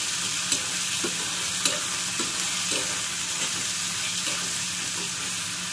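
Diced potato, onion, peas and tomato sizzling in oil in a steel kadhai, with a steel spoon scraping and tapping the pan as it stirs, about two strokes a second.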